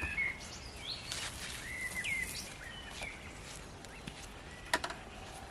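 A bird calling outdoors: several short whistled notes that bend up and down in pitch over the first three seconds. A single sharp knock sounds near the end.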